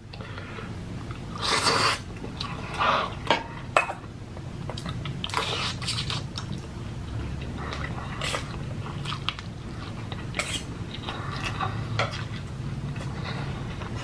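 Close-miked chewing and eating of a cheesy spicy ramen noodle dish, with irregular louder mouthfuls every second or two over a steady low hum.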